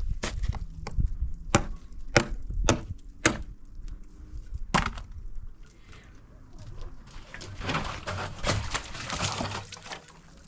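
Sharp wooden knocks and cracks, about six over the first five seconds, then a few seconds of rustling noise.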